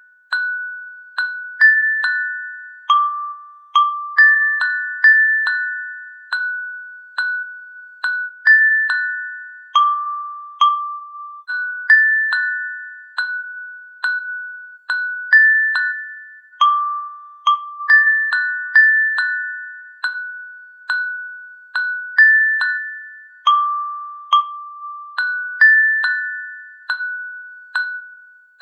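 Slow, gentle melody of bell-like struck notes, like a glockenspiel or music box, each note ringing and fading. It moves over a few high pitches at about one to two notes a second, with no rain to be heard under it.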